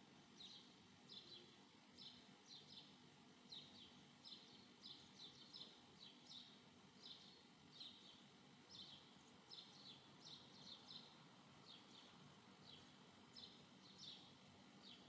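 Faint, high-pitched bird chirps, short and repeating about two to three times a second, over a low background hiss.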